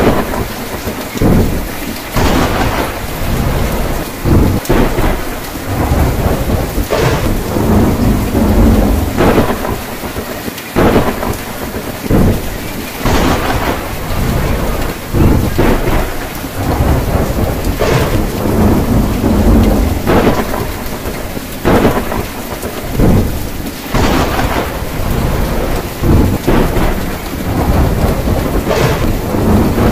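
Heavy rain falling on a tin roof, with thunder rumbling through it and swelling again and again every second or two.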